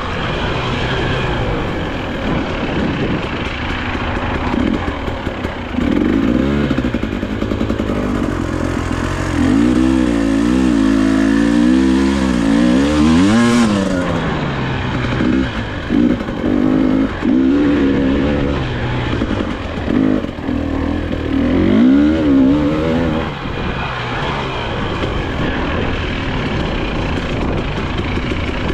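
2022 Husqvarna TE300i's 300 cc two-stroke engine being ridden off-road, its note rising and falling as the throttle is opened and rolled off through the track's sections, with the biggest rev about halfway through. Wind noise and clatter from the rough ground mix in.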